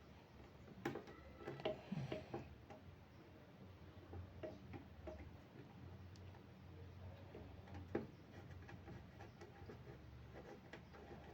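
Faint scattered clicks and light metallic taps of an industrial sewing machine's oil-sump drain nut being worked loose and a container being set under it, with a few sharper knocks about a second in, around two seconds in and near eight seconds in.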